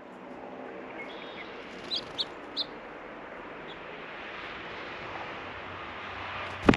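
A small bird at the feeder gives three short, high chirps about two seconds in, over a steady rushing background. A sharp knock comes near the end.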